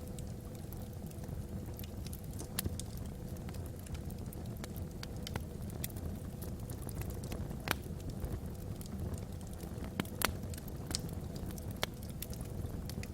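Wood logs burning in a fireplace: a steady low rumble of the fire with irregular crackles and pops, a few sharper pops standing out about 2.5, 8 and 10 seconds in.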